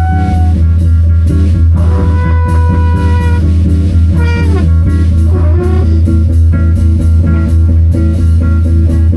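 Live band improvising: drum kit and bass keep a steady groove while a guitar plays held lead notes, sliding down in pitch around the middle and bending back up just after.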